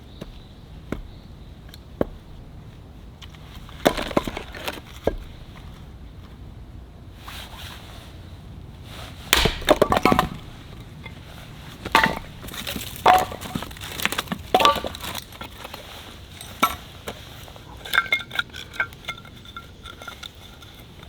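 Hard objects being handled: scattered clinks and knocks, busiest in the middle, with a ringing clink a few seconds before the end.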